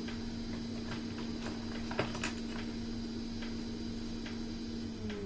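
Light ticking, a click every half second or so, over a steady low hum that slides down in pitch near the end.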